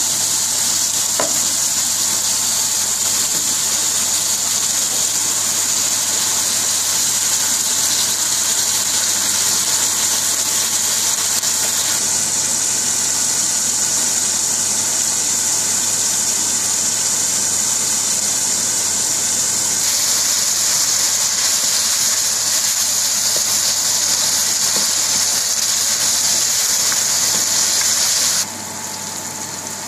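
Sliced onions sizzling in vegetable oil in a frying pan: a steady hiss that drops off sharply near the end.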